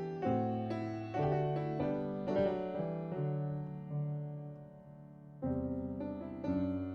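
Solo piano playing slow chords, each struck and left to ring away. The notes fade low a little past the middle before a new chord is struck about five and a half seconds in.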